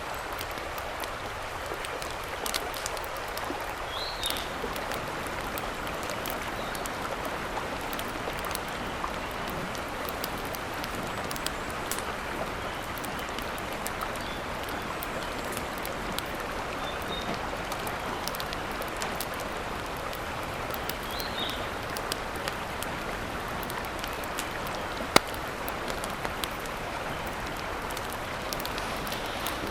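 Steady water noise, a stream or rain, runs throughout with scattered sharp clicks and pops. One loud snap comes about 25 seconds in, and brief high chirps come twice.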